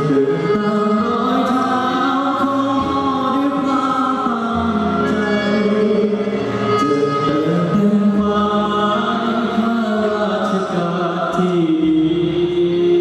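School choir singing a slow Thai song in harmony, with long held notes that move slowly in pitch.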